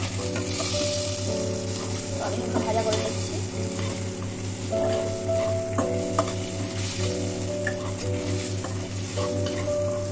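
Pieces of food sizzling as they fry in hot oil in a stainless steel kadai, stirred with a metal spatula that clinks against the pan a few times.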